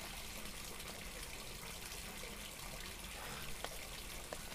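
Steady rain falling: an even hiss with a few faint drips.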